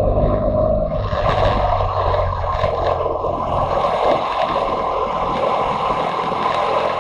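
Motorcycle on the move heard from onboard: wind rush over the microphone and a low engine rumble, the engine note dropping back about a second in and staying subdued while the wind noise carries on.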